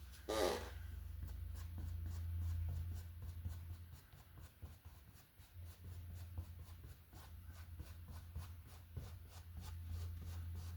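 Paintbrush scrubbing acrylic paint out across a canvas in quick, repeated strokes, about four a second, over a steady low hum.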